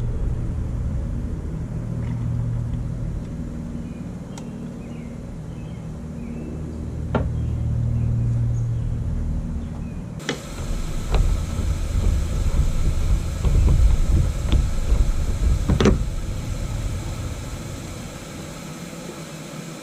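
Boat live well filling with water: a low hum and rumble that swells and eases in the first half, then a steadier rumble with a few sharp knocks after a sudden change about halfway through.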